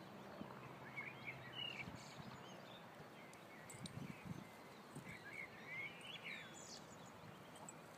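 Faint outdoor ambience with scattered bird chirps, and a few soft low thumps around the middle.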